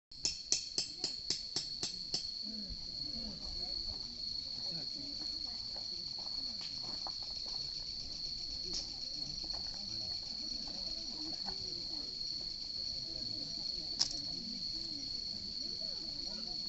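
Crickets trilling in one steady, high, continuous tone. A quick run of about eight clicks comes in the first two seconds, and a single sharp crack about 14 seconds in.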